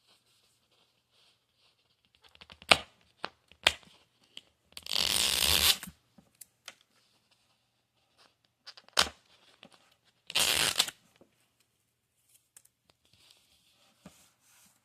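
Small plastic toy pieces and packaging being handled: sharp clicks and taps, with two loud rustling bursts about a second long, one a few seconds in and one past the middle.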